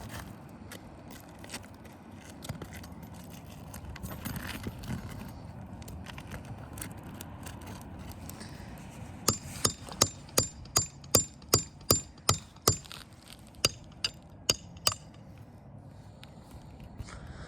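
Hammer strikes while asphalt ridge cap shingles are being removed: about fourteen quick, sharp blows at roughly two to three a second, starting about halfway through. Quieter scraping and rustling come before them.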